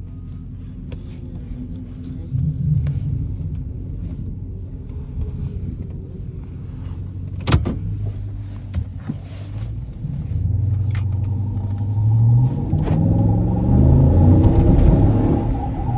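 Dodge Charger engine running as the car pulls away and drives, its note rising as it accelerates in the second half. There is a single sharp click about halfway through. About 11 s in, a steady whine comes in: a noise heard only while the car is moving, which the owner thinks comes from a right-side wheel well.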